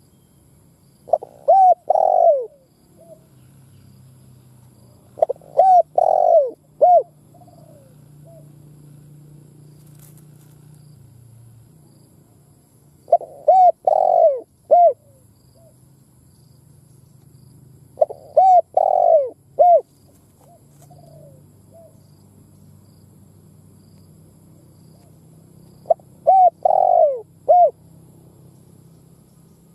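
Spotted dove cooing: five phrases of three or four short coos each, several seconds apart.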